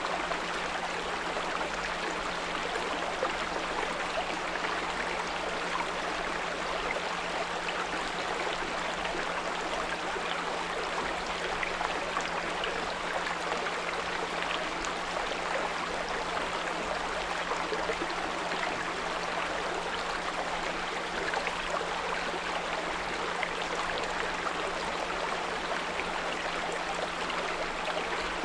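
Small brook running steadily, with a continuous low 174 Hz pure tone mixed in under the water sound.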